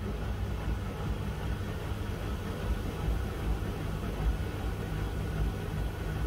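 Miele W1 front-loading washing machine running, a steady low motor hum and drum rumble.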